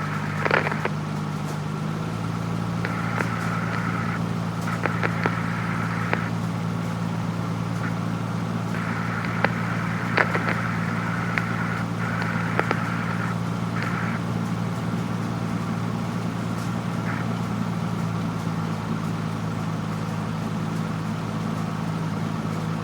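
Cessna 172F's Continental O-300 six-cylinder engine running steadily at low taxi power, a constant drone heard from inside the cabin, its pitch shifting slightly about two seconds in.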